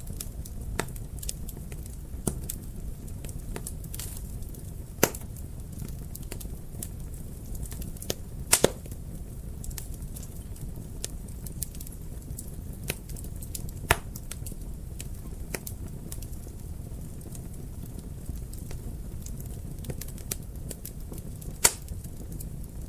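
Wood fire burning in a fireplace: a steady low rumble of flames with constant small crackles and a few louder sharp pops, one of them a quick double pop.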